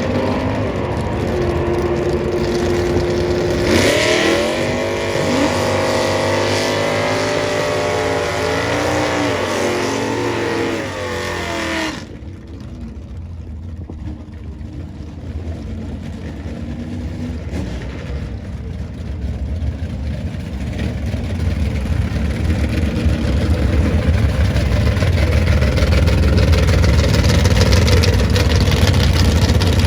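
Muscle car engines running and revving, their pitch rising and falling through the first dozen seconds. After an abrupt cut, a deep engine rumble builds steadily louder toward the end.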